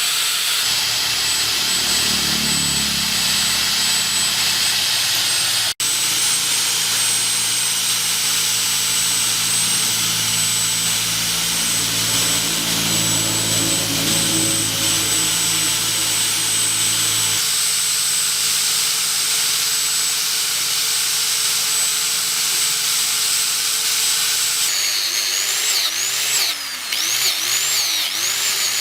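A handheld power tool running steadily with a high whine, cutting out for an instant about six seconds in. Near the end its pitch swoops up and down repeatedly as it is worked against the part.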